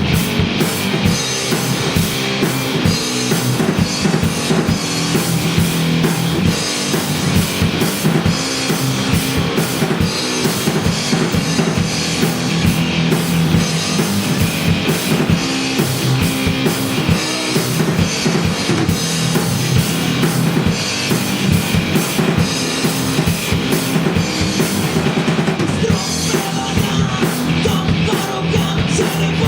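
Live rock band playing loud and steady, a drum kit driving the beat under the other instruments, with no singing heard.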